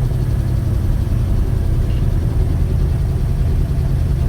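Chevy 307 small-block V8 running steadily while the car is driven, with a loud valve train that sounds like a diesel; the noise was traced to mismatched valve springs and retainers.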